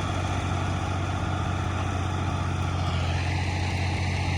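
Diesel engine of heavy farm machinery running steadily, with a deep constant hum and dense mechanical noise.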